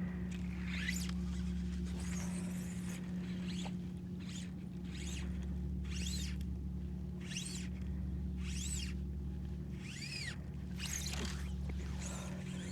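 Fly line squeaking in repeated strokes, about one every second or so, each stroke rising then falling in pitch, as the fly is worked for redfish. A steady low hum runs underneath.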